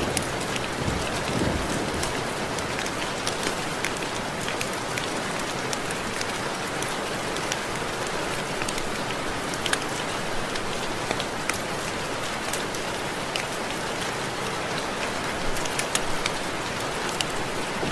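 Steady rain, with many separate raindrops ticking sharply against window glass.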